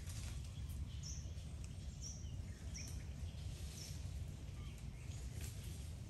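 Four short, high bird chirps about a second apart over a steady low outdoor rumble.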